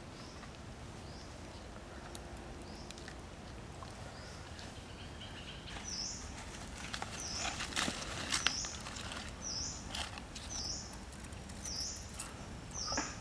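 A bird repeating a short high chirp about once a second, faint at first and louder from about halfway through, over steady outdoor ambience. Scattered sharp clicks and crackles come in around the middle.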